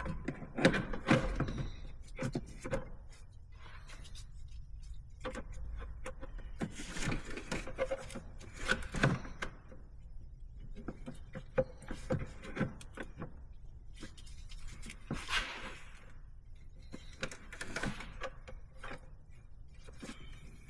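Irregular knocks, clicks and rubbing of intake tubing, couplers and hose clamps being handled and fitted by hand in an engine bay.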